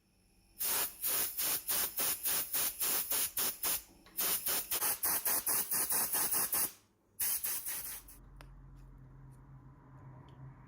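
Rapid pulses of hissing spray, about five a second, in three runs with short breaks. About 8 seconds in they give way to a quieter, steady low hum with a hiss.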